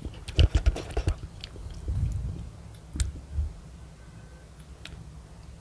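A person chewing and biting a gummy jelly candy close to the microphone. There is a quick run of wet clicks and smacks in the first second, more around two and three seconds in, and then it goes quieter.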